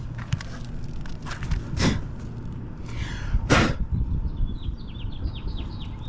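Footsteps and scuffing on an asphalt shingle roof, with two louder rushing scrapes about two and three and a half seconds in. Faint short high chirps come near the end.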